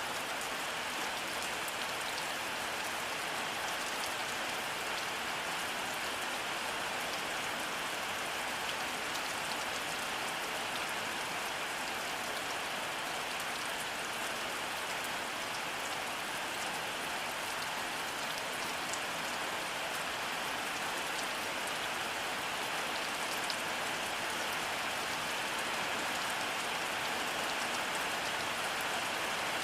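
Steady rainfall, an even hiss of rain with fine scattered drop ticks, with no thunder heard.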